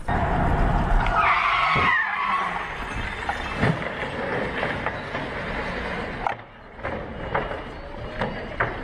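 Car tyres squealing in a skid between about one and two and a half seconds in, over steady road and engine noise, with a few short knocks later on.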